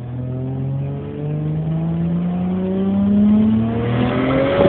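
Turbocharged Toyota 1JZ inline-six accelerating hard, its note climbing steadily through a gear. Near the end the note breaks off with a couple of sharp cracks.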